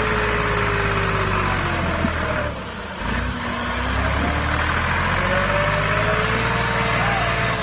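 A motor running steadily, its pitch sagging as if under load, briefly dropping in loudness a little over two seconds in, then rising again.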